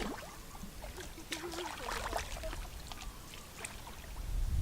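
Water splashing and trickling in short, irregular bursts, as from hands or feet working in shallow water.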